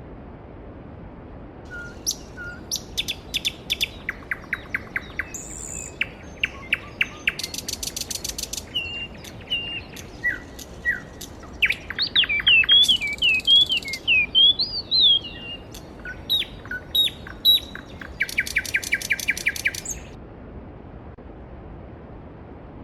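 Songbirds singing: series of rapid chirps and trills, then warbled phrases and a fast high trill near the end. The birds start about two seconds in and stop shortly before the end, over the steady rush of a mountain stream.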